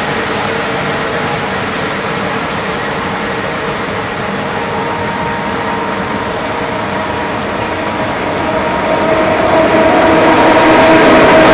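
Passenger train's coaches rolling past on the rails with a steady rumble. From about eight seconds in, an approaching freight train's electric locomotive grows louder, its steady hum rising in level near the end.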